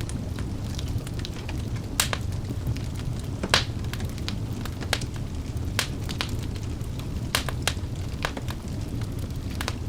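Wood fire burning in a fireplace: a steady low rumble of flames with irregular crackles and pops from the burning logs, the sharpest snaps about two and three and a half seconds in.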